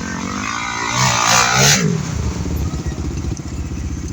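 Enduro motorcycle engine revving up sharply about a second in, then dropping back to run steadily at low revs.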